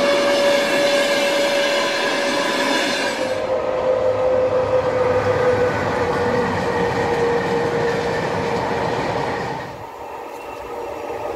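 Trains hauled by Sr1 electric locomotives passing: a steady whine that slowly falls in pitch over the rumble of the wheels and wagons. The sound changes abruptly about three seconds in and drops to a quieter passage near the end.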